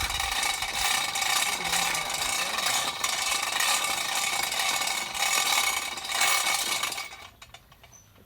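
Percussion hammer drill running, a loud, dense, rapid rattling that dies away about seven seconds in.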